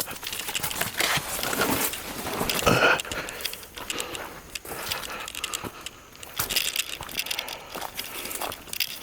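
Footsteps on a trail, crackling and crunching irregularly over leaves and twigs underfoot, with a short louder sound about three seconds in.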